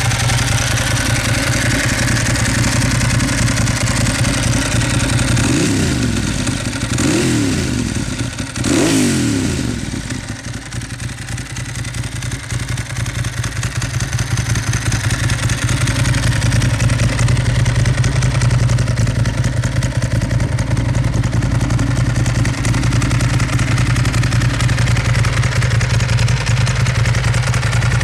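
Ducati Monster S4RS's 998 cc Testastretta V-twin with a custom exhaust idling, blipped three times in quick succession partway through, then settling back to a steady idle.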